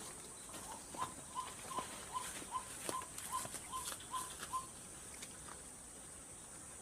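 White-breasted waterhen calling: a run of about ten short, evenly spaced notes, about two and a half a second, stopping a little past halfway. A steady high insect buzz runs behind it.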